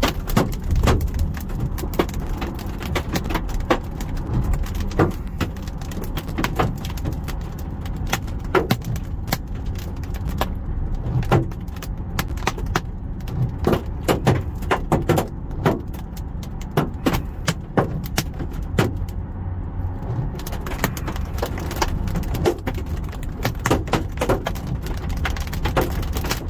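Golf-ball-size hailstones pelting a car's metal body, denting it: irregular hard knocks, several a second, some much louder than others, over a steady low rumble of the storm.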